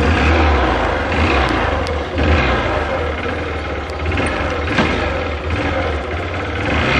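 A moving motorcycle: wind rushes and buffets against the microphone in an uneven low rumble, over a steady hiss of engine and road noise.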